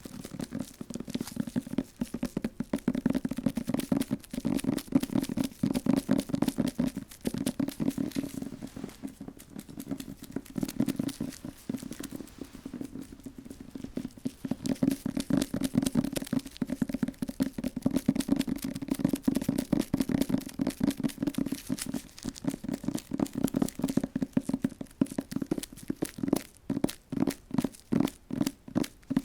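Rapid, gentle ASMR tapping on an object, a dense run of light taps that settles into separate, evenly spaced taps, about four a second, near the end.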